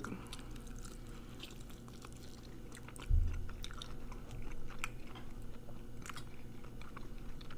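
Someone chewing and biting into chicken wings close to the microphone, with many small wet clicks. A low thud about three seconds in.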